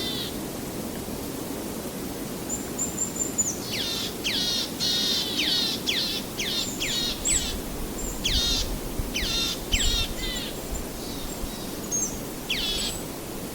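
A bird calling in quick series of downward-sweeping notes, loosest at the start, busiest in the middle and trailing off near the end, with a thin high whistle before the series, over a steady low rush of background noise.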